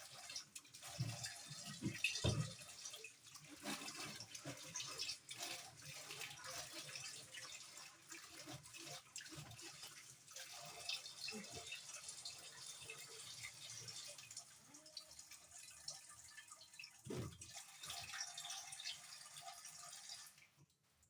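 Water running and splashing in the spin tub of a twin-tub washing machine as it is rinsed out by hand, with a few dull knocks against the tub. The water stops shortly before the end.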